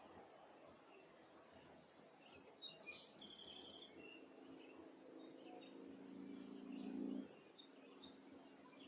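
Faint wild birds chirping, with a short rapid trill about three seconds in. Underneath, a low steady hum grows louder and cuts off suddenly about seven seconds in.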